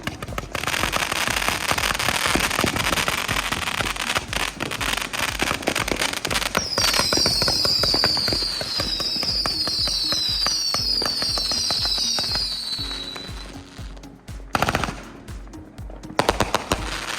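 Consumer fireworks going off: a rapid, dense string of crackling reports like machine-gun fire, with a run of whistles over the middle, each falling in pitch. Near the end come a few separate bangs.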